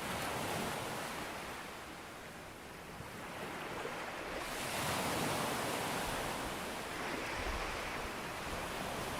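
Ocean waves breaking and washing on a beach: one wash ebbs away, then a bigger wave breaks about four and a half seconds in and its hissing wash carries on.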